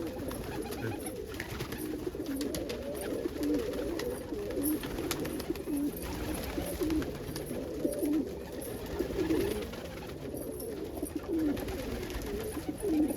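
Many domestic pigeons cooing together, a steady overlapping chorus of low calls, with the odd faint click or scrape.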